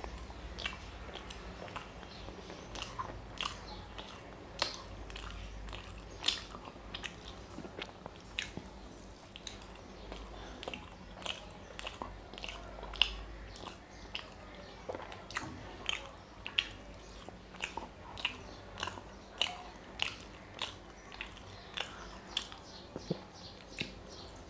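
Close-miked chewing and wet lip smacks from eating a soft, syrupy gulab jamun: a steady run of sharp mouth clicks, one or two a second.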